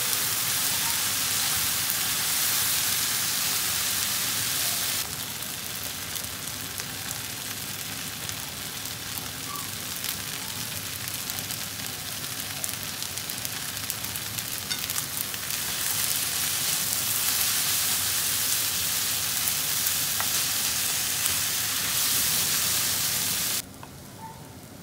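Yakisoba noodles, cabbage, carrots and pork sizzling in a frying pan as they are tossed with chopsticks. The sizzle is quieter for a stretch in the middle and drops off abruptly near the end.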